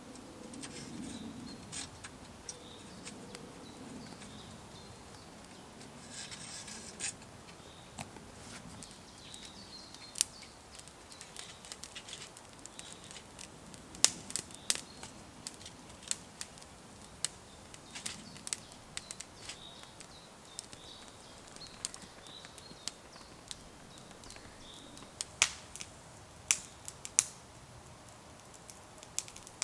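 Campfire crackling: irregular sharp pops and snaps, with a handful of louder cracks.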